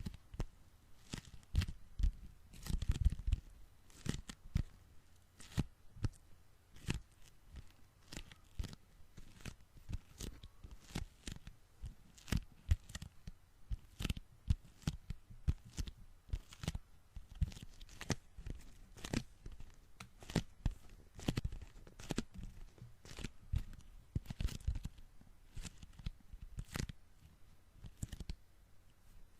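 Sticky hands and fingers being pressed together and peeled apart close to the microphone, giving irregular tacky crackling and clicking pops a few times a second.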